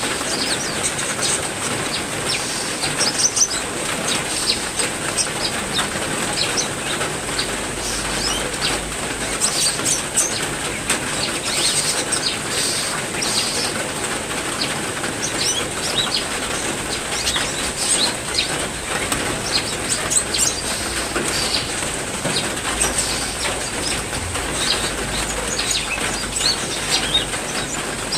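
Steady heavy rain with many small caged songbirds chirping and calling over it throughout.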